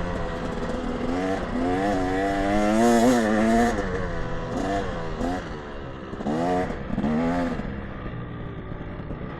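KTM 300 XC TBI single-cylinder two-stroke dirt bike engine being ridden, its revs rising and falling repeatedly with the throttle, with several quick rev blips a little after the middle.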